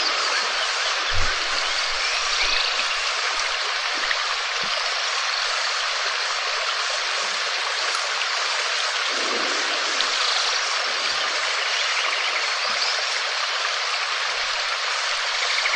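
Steady heavy rain falling, an even hiss without pauses, with a short low thump about a second in and faint high chirps now and then.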